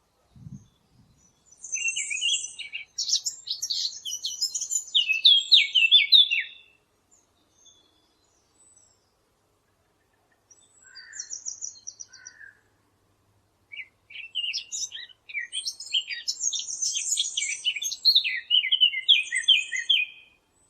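A songbird singing two long, varied phrases, each ending in a run of repeated notes, with a few short calls in the pause between them.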